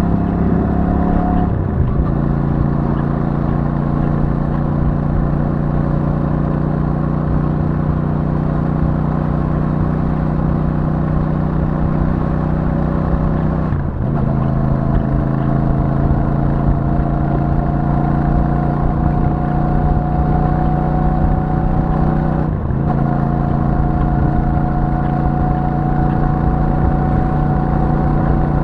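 Royal Enfield Super Meteor 650's parallel-twin engine through its stock exhaust, pulling steadily with the pitch slowly rising. The pitch drops suddenly three times, about a second and a half in, around the middle and a few seconds before the end, as it shifts up a gear.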